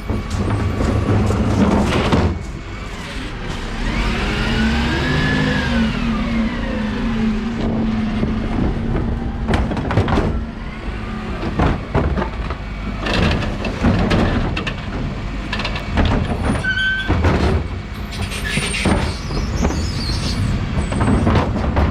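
Dennis Elite 6 refuse truck running: a steady engine hum, with the pitch rising and falling a few seconds in, and repeated knocks and clatters.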